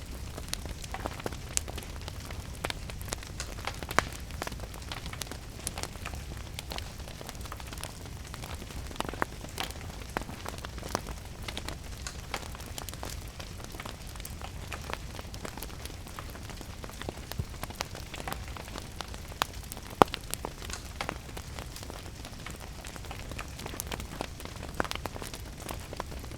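Wood fire crackling, with irregular sharp pops (the loudest about twenty seconds in), over steady rain and a low rumble.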